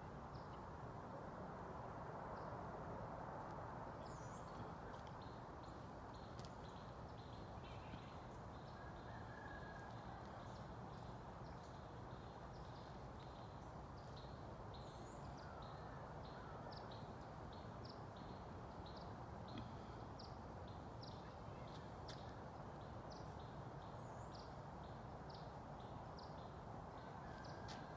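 Faint outdoor dawn ambience with a steady low background rumble. A small bird chirps short, high notes over and over, about once a second and more often in the second half, with a few higher sliding calls.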